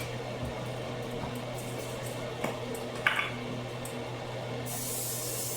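Aerosol butter spray hissing for about a second near the end, after a couple of light clicks, over a steady low hum.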